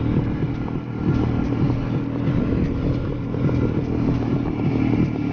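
Single-cylinder two-stroke engine of a vintage ČZ motorcycle running steadily under way, heard from the rider's seat.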